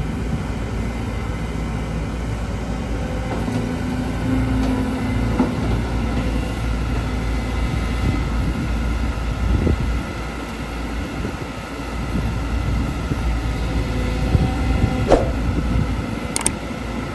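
Caterpillar 313GC excavator's diesel engine running steadily under work, with a couple of sharp knocks near the end.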